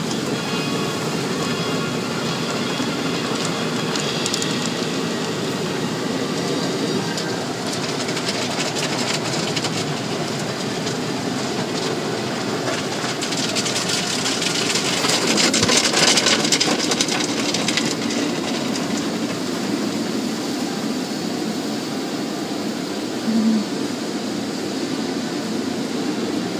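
Automatic car wash running: a steady rumbling wash noise, with a louder hissing spell of spray in the middle.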